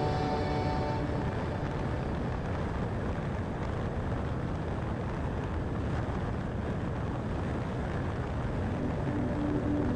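Steady road and wind noise of a car driving along a highway. The tail of background music fades out about a second in, and music comes back in near the end.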